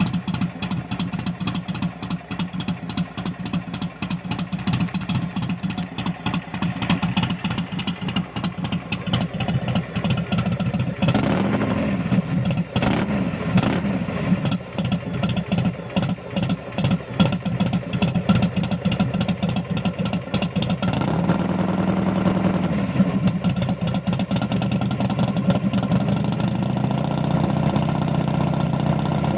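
A 2005 Buell XB9SX's air-cooled V-twin running through a D&D aftermarket exhaust, idling with a lumpy, uneven pulse. It is revved in a few short blips about eleven seconds in, then held at a raised, steadier idle for the last third.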